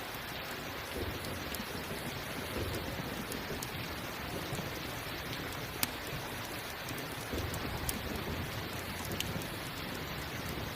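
Steady rain with low rumbles of thunder swelling up now and then, and a few sharp crackles from a campfire.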